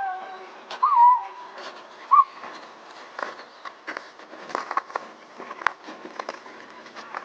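Excited skijoring dogs yelping in short high cries, twice in the first couple of seconds, followed by scattered clicks and knocks.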